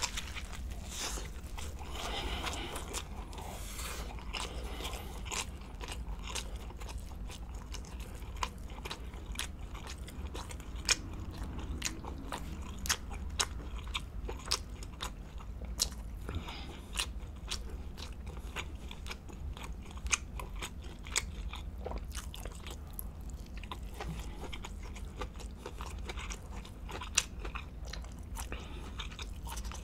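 Close-miked mouth sounds of biting into a sandwich of seared tuna steak and raw honeycomb on toasted Hawaiian sweet bread, then chewing it slowly, with many sharp clicks and smacks throughout.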